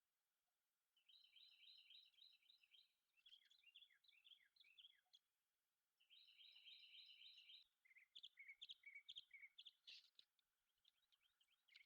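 Faint songbird song: quick runs of high chirping notes and fast trills, starting about a second in and pausing briefly past the middle, then lower, spaced chirps toward the end.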